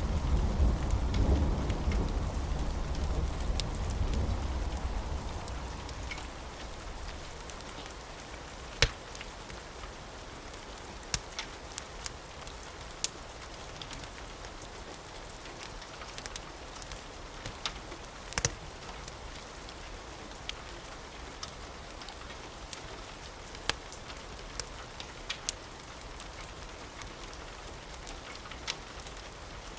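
Steady rain with a low rumble of thunder that dies away over the first several seconds. Scattered sharp pops and clicks sound over the rain throughout.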